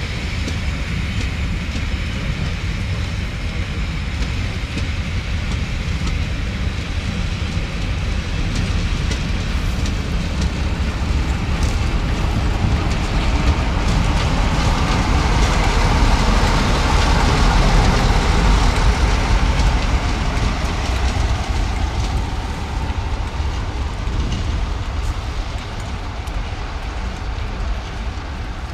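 Passenger train coaches rolling past on the track: steady wheel-on-rail rumble with scattered clicks over rail joints. It swells to its loudest about halfway through and eases off toward the end.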